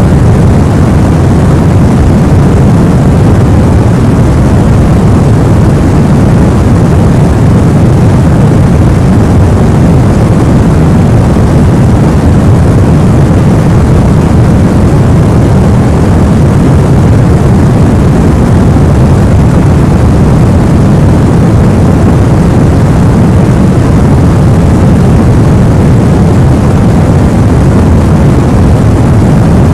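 Sleep-aid white noise: a loud, unchanging deep rushing noise with little hiss in it.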